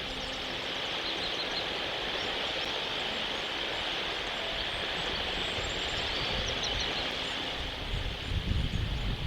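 Outdoor nest-camera ambience: a steady high hiss with faint, scattered bird chirps, and gusts of wind rumbling on the microphone near the end.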